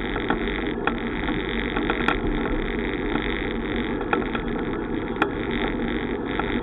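Steady wind and road noise from a moving bicycle, with scattered light clicks and rattles and two sharper clicks about two and five seconds in.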